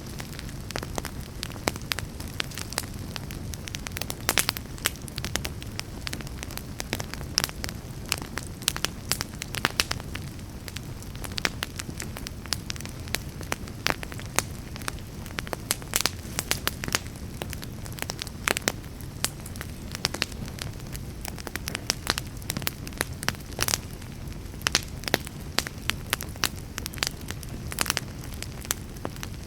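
Wood fire burning in a fireplace: a steady low rumble of flames with frequent sharp, irregular crackles and pops of burning logs.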